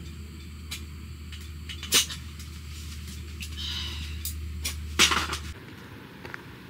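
A few sharp knocks and clicks, two of them loud, about two and five seconds in, over a low steady hum that stops about five and a half seconds in.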